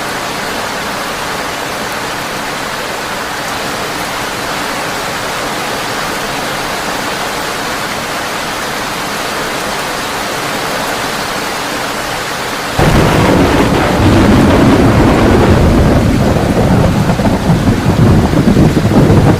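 Heavy rain falling steadily on a tin roof. About two-thirds of the way through, a loud, deep rumble of thunder comes in suddenly and keeps rolling, louder and uneven.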